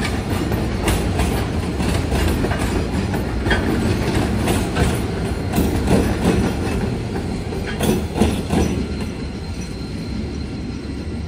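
Container train wagons rolling past: a steady low rumble with the wheels clacking irregularly over rail joints, easing off slightly near the end, when a faint high whine comes in.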